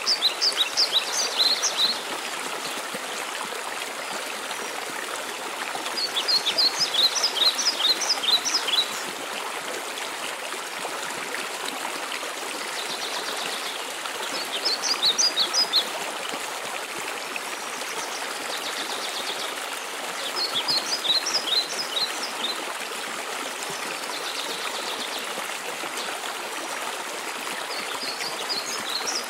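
Steady rush of a waterfall's falling water. Over it a songbird sings a short phrase of quick, high, downward-slurred notes five times, about every six to seven seconds, with a softer high trill between some of the phrases.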